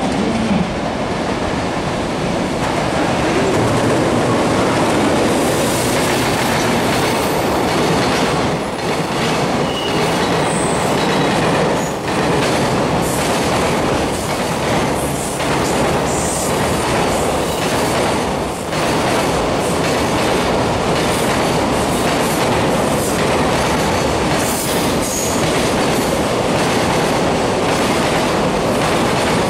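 Container freight train hauled by an EF210 electric locomotive passing through without stopping: a loud, steady rumble of wagons rolling by, with wheels clacking over rail joints and short high wheel squeals now and then.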